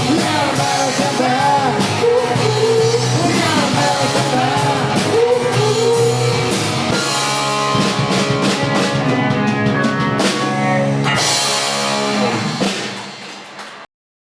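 Live rock band playing, with a singing voice over drum kit, electric guitars and bass. The sound drops in level about a second before the end and then cuts off abruptly.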